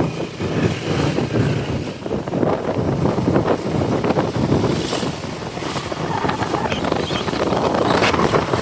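Wind buffeting the microphone of a passenger on a moving motorcycle, a loud, uneven rush, with the motorcycle and road running underneath.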